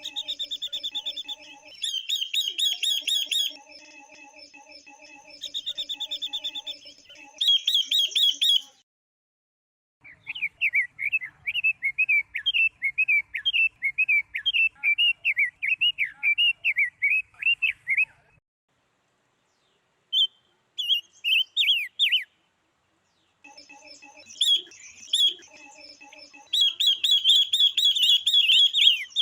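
Calls of female silver-eared mesia and female red-billed leiothrix, used to excite male birds. Bursts of buzzy, rattling trills alternate with a long run of quick up-and-down warbling notes in the middle, split by abrupt silent gaps.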